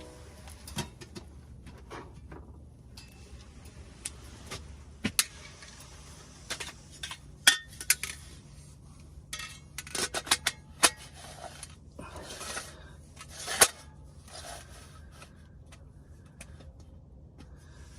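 Metal camping cookware and utensils being handled: a series of irregular sharp clinks and knocks, thickest in the middle, with a few scraping rattles between them.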